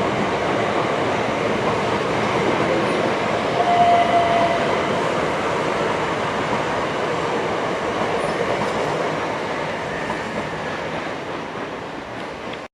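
A train running past on the line: steady rumble and wheel-on-rail noise. A brief thin tone comes about four seconds in, and the noise eases slightly toward the end.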